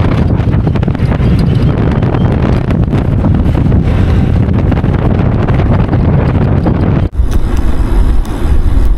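Wind buffeting the microphone of a bicycle rider coasting downhill, a loud steady rumble that breaks off for an instant about seven seconds in.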